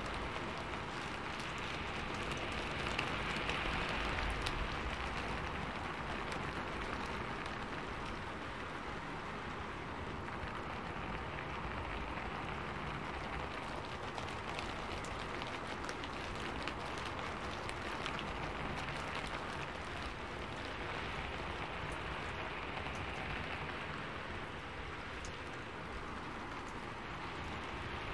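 Steady rain falling: an even hiss of countless drops, a little louder about three to four seconds in.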